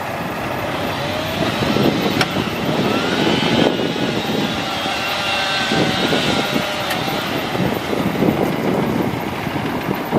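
Mack AMI-300 diesel engine of a 2003 Mack DM690S roll-off truck running, growing louder over the first two seconds and then staying at a steady, rough level.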